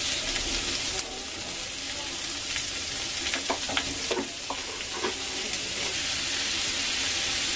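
Chopped onion, capsicum, carrot and peanuts sizzling in mustard oil in a metal kadhai: a steady frying hiss. About halfway through come a few short clicks of the spoon against the pan.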